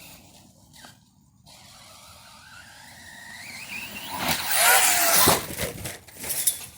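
Radio-controlled Arrma Outcast stunt truck's brushless electric motor whining up in pitch as it accelerates. About four seconds in comes a loud noisy burst, the loudest part, followed by scattered clattering as the truck hits the ground and tumbles.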